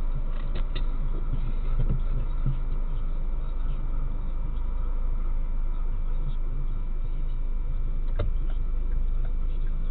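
Car engine idling, heard from inside the cabin through a dashcam: a steady low rumble with a few faint ticks.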